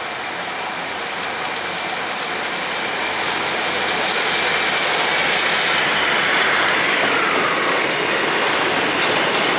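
A train running into the station, getting steadily louder, with high whines that fall in pitch in the second half.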